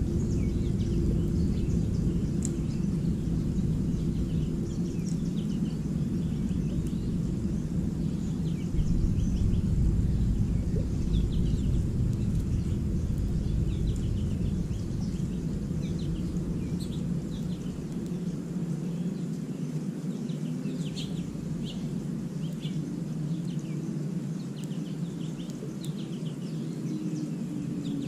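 Small songbirds chirping in short, scattered high calls throughout. Under them runs a steady low rumble of background noise, which eases in the second half.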